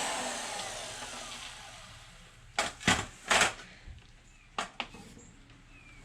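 Circular saw winding down after a cut, its sound fading away over about two seconds. Then a few sharp metal clanks: three close together about three seconds in, and two more a second later.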